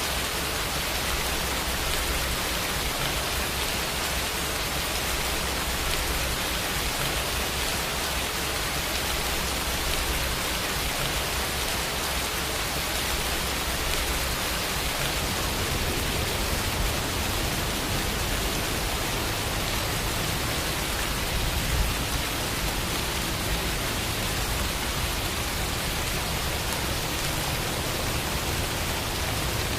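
Steady rain, an even hiss with a brief slightly louder patter about two-thirds of the way through.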